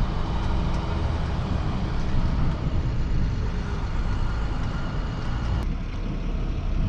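Motor vehicle driving: a steady engine and road rumble, with one sharp click about five and a half seconds in.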